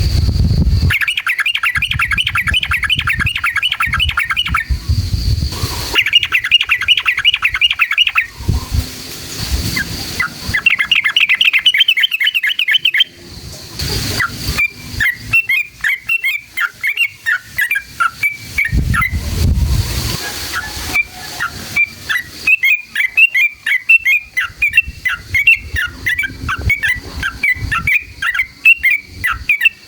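Yellow-vented bulbul (trucukan) singing. Three bursts of fast chattering trills come in the first half, then a looser string of bubbly chirps to the end, with low rumbles in the gaps.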